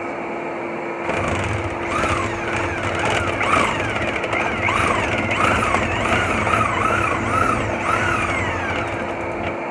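Drill-driven dryer vent brush spinning on its rod inside a clogged 4-inch dryer vent duct, starting about a second in: a motor whir with a low rumble and scraping through packed lint, its pitch rising and falling about twice a second.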